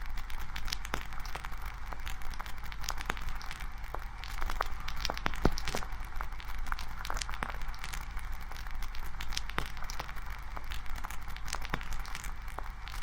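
Wood campfire burning, crackling steadily with many small irregular pops and snaps from the burning wood.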